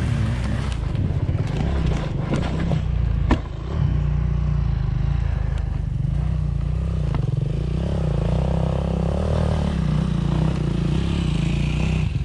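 Off-road motorcycle engine running close to the microphone, its revs rising and falling, with one sharp knock about three seconds in.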